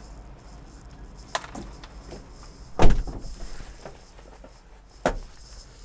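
Handling noises in the cab of a 1993 Subaru Sambar kei truck: a sharp click, then a heavy thump about halfway through, the loudest sound, then another sharp click near the end.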